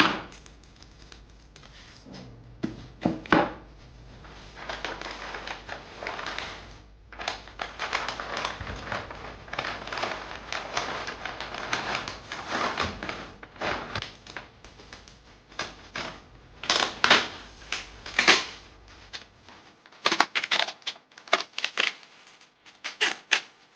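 Plastic wrapping crinkling and rustling in irregular bursts, with sharp clicks, as food containers are wrapped up for transit to prevent spillage.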